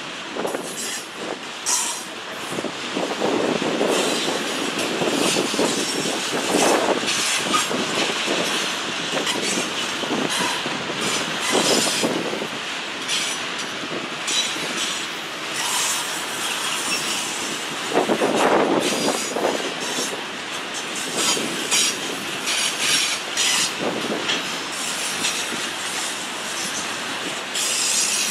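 Freight train rolling past, its cars' wheels clattering and squealing on the rails, loud and continuous.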